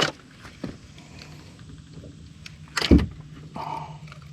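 Fish and gear being handled on a bass boat's deck while culling a catch, with a small knock about half a second in and a loud knock about three seconds in over a low steady hum.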